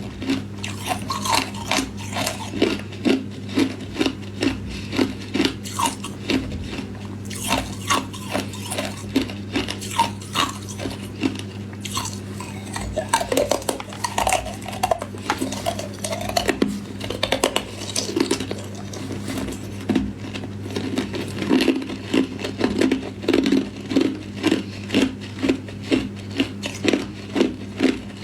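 Hard clear ice cubes being bitten and chewed close up, a steady run of sharp crunches about two to three a second, over a constant low hum.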